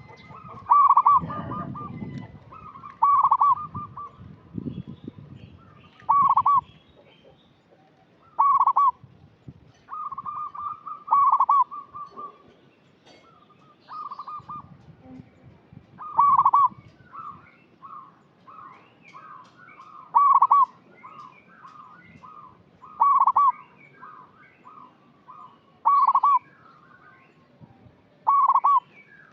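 Zebra dove (perkutut) cooing: loud, clipped notes repeated every two to three seconds, with quicker runs of softer, stuttering notes in between.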